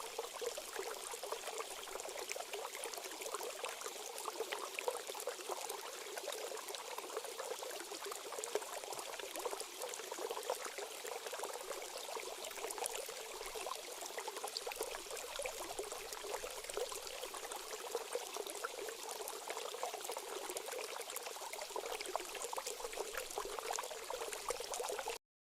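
Water trickling and splashing steadily, like a small stream or spring outflow. It cuts off abruptly near the end.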